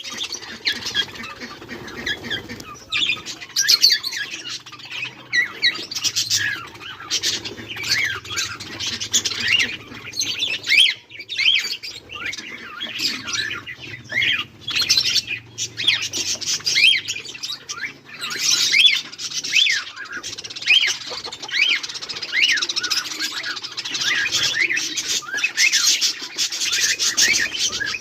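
Budgerigars chirping together, with many short, high chirps overlapping in continuous chatter.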